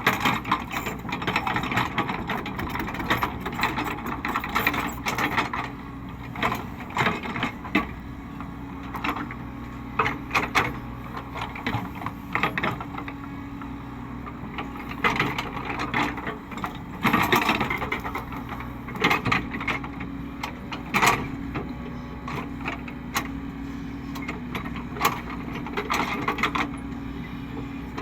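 Caterpillar 307E2 excavator's diesel engine running steadily, with frequent sharp knocks and cracks from the machine's work scattered throughout.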